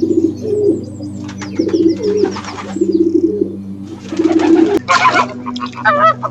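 Pigeon or dove cooing in four short warbling phrases, with higher bird chirps and trills between them and a wavering call near the end, over a steady low hum.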